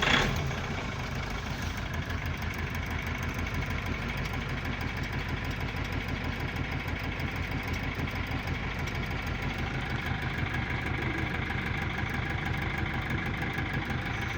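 Cummins ISF 2.8 four-cylinder turbodiesel just started and idling roughly, with a fast, even pulsing and a heavy shake. The rough running and knock come from the third cylinder, which the mechanic puts down most likely to a leaking injector causing small hydraulic locks.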